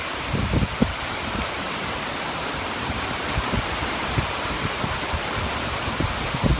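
Storm wind and rain making a steady rushing noise, with gusts buffeting the microphone in short low thumps about half a second in and again near the end.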